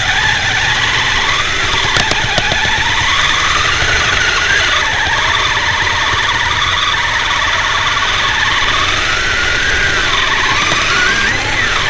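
Brushed electric motor and gear drive of a Kyosho Blizzard SR radio-controlled snowcat whining as it drives, the pitch rising and falling with the throttle, with a couple of brief clicks about two seconds in.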